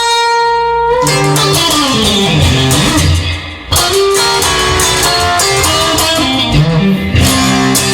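Music led by electric guitar, with no singing. A note is held for about the first second, and the sound dips briefly a little past three seconds in.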